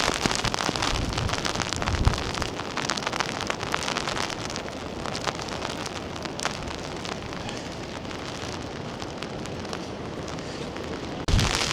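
Heavy rain, with many drops ticking sharply close to the microphone. Near the end a sudden louder rush with a deep rumble comes in.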